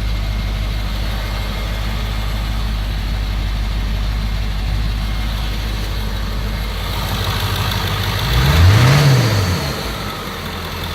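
1999 Ford 7.3L Power Stroke V8 turbo diesel idling steadily with its exhaust and intercooler disconnected. About eight seconds in it is revved once, rising in pitch and falling back to idle within about a second.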